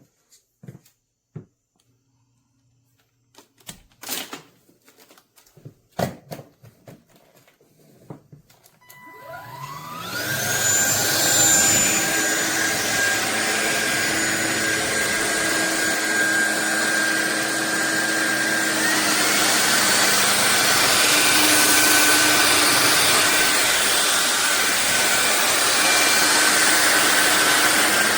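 A few clicks and knocks of handling, then about nine seconds in a cordless stick vacuum cleaner's motor spins up with a rising whine and runs steadily with a high hiss of airflow.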